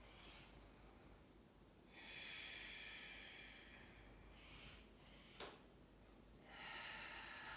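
Slow, deep breaths close to the microphone, held in a yoga pose: a long breath about two seconds in, a shorter faint one, and another long one near the end, with a single sharp click a little after five seconds in.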